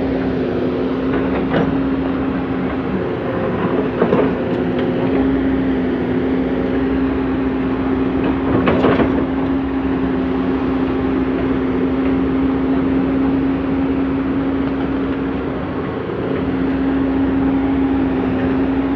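Komatsu PC200CE hydraulic excavator working, its diesel engine running with a steady drone, with metallic clanks about four and nine seconds in.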